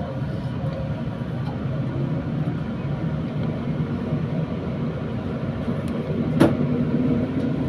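Train running noise heard inside a passenger car: a steady rumble of wheels on rails with a faint motor hum, and one sharp knock about six seconds in.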